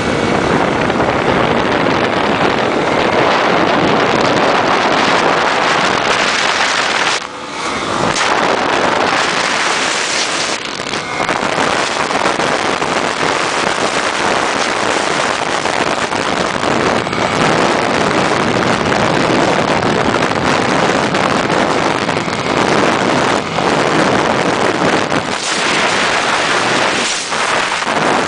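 Wind rushing hard over the microphone at high speed on a racing motorcycle, mixed with motorcycle engine noise. It is loud and steady, and dips briefly about seven seconds in.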